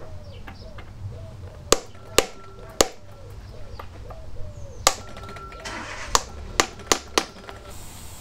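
Hammer blows on metal, about eight sharp strikes in irregular groups, some leaving a brief ring.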